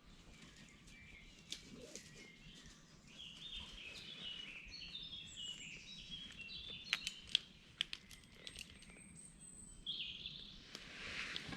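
A songbird singing a run of quick, high, stepped notes, followed by a few sharp clicks and a short rustle near the end.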